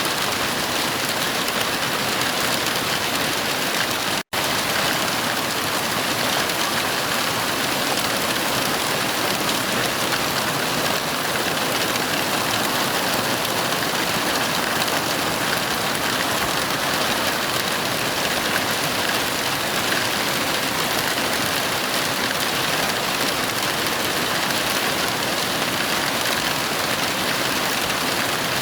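Heavy rain falling in a steady, even hiss. There is no thunder. About four seconds in, the sound cuts out for a split second.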